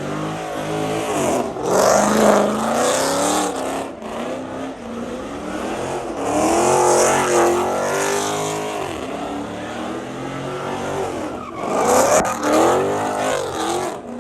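Muscle car doing donuts: its engine revs up and down in three big surges, about two, seven and twelve seconds in, over the hiss and squeal of spinning tires.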